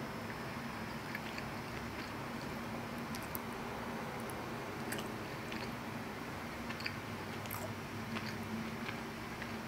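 Quiet close-miked chewing of a mouthful of macaroni and cheese, with scattered soft wet mouth clicks.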